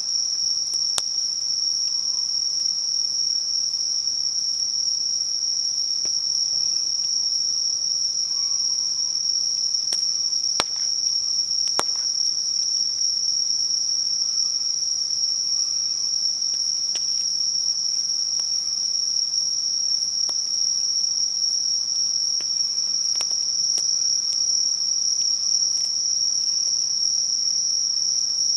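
A steady, unbroken high-pitched trill of singing insects on a late-summer night, with a few sharp crackles from a wood bonfire scattered through it.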